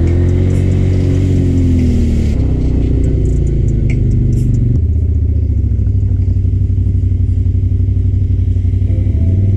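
Off-road vehicle engine running under throttle: its pitch rises and falls in the first two seconds, then it settles into a steady, evenly pulsing run.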